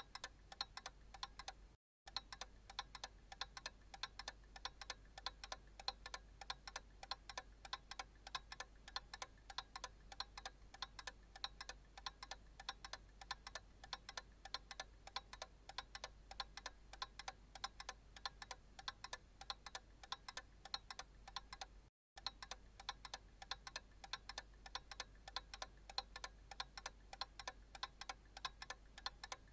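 Analog clock ticking faintly and steadily in an even run of short ticks. The sound cuts out for a split second twice, about two seconds in and again about twenty-two seconds in.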